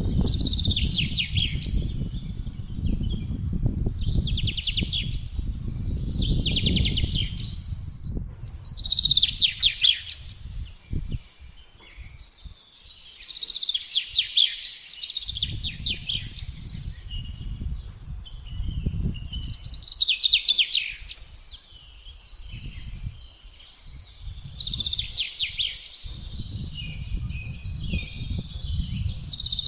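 Songbirds singing short, quick phrases every two to three seconds over gusting wind, whose low rumble comes and goes and drops away for several seconds in the middle.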